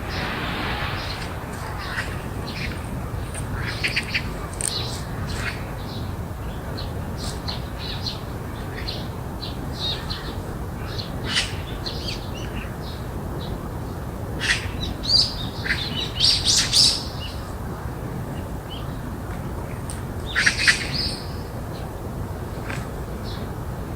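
Garden birds chirping and calling in short, scattered notes, with bursts of louder, harsher calls about two thirds of the way through and again a few seconds later, over a steady low background rumble.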